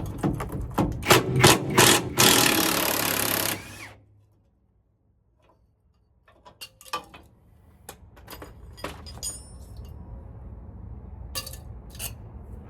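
Sharp metal clanks and knocks of tools at work, then a loud hiss lasting about a second and a half. A few scattered clicks follow over a low steady hum.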